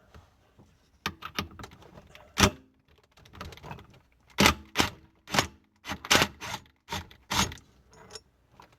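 Irregular sharp clicks and knocks of a metal nut driver working on the screws of a garbage disposal's discharge elbow, in close quarters under the sink, about one a second.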